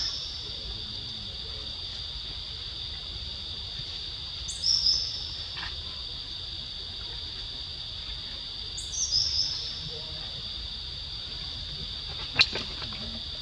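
Steady high-pitched drone of a forest insect chorus. Over it, a short call falling in pitch sounds three times, about four seconds apart, and there is one sharp click near the end.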